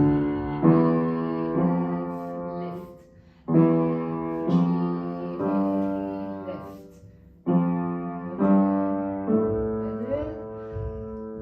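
Piano played in three short phrases: each begins with a loud struck note and goes on with notes about a second apart that are left ringing and fade, with brief pauses between the phrases.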